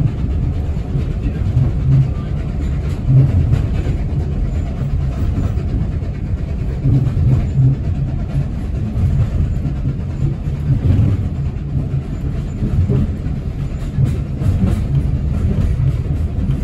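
Train running along the track: a steady low rumble of wheels on rails, with uneven heavier pulses throughout.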